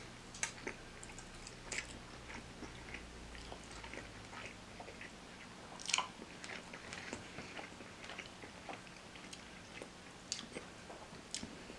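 Close-miked biting and chewing of fried chicken dipped in sweet and sour sauce: an irregular run of small mouth clicks and smacks, the loudest about six seconds in.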